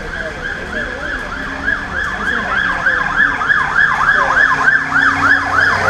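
Emergency vehicle siren in fast yelp mode, rising and falling about three to four times a second, and growing louder as it comes closer.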